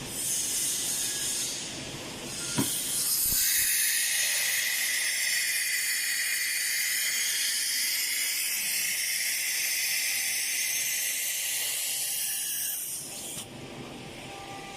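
A sharp click, then a loud, steady hiss of compressed air for about nine seconds that stops abruptly near the end: the pneumatic air blow of an ATC CNC router spindle during an automatic tool change.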